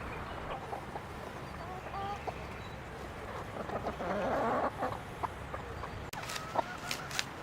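Free-range chickens clucking, with scattered short calls and a brief scratchy rustle about four seconds in.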